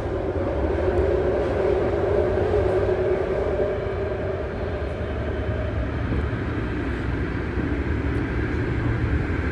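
BART train running between stations: steady rumble of wheels on rail with a constant hum from the traction motors.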